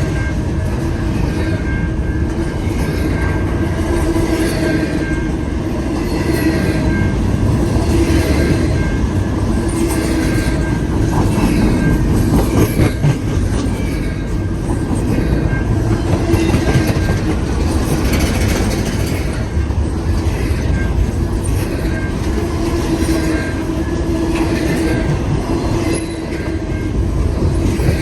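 Cars of a long intermodal freight train rolling past: a steady rumble of steel wheels on rail with a regular clickety-clack of wheels over rail joints.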